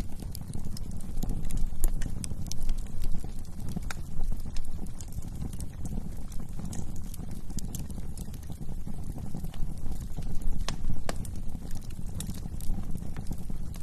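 Wood fire burning in a fireplace: irregular crackles and sharp pops over a low, steady rush of flames.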